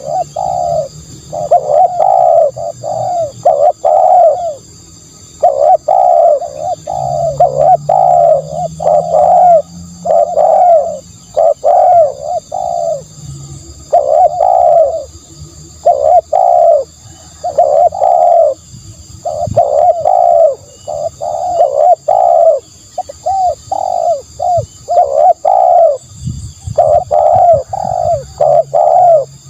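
Spotted dove cooing over and over, in phrases of several quick coos separated by short pauses, used as a decoy call. A faint steady high-pitched hiss runs underneath.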